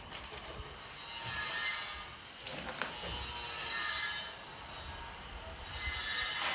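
Freshly lit wood fire in a cast-iron fireplace insert, running with its air intake full open: a hissing rush that swells and fades three times, with a few sharp crackles.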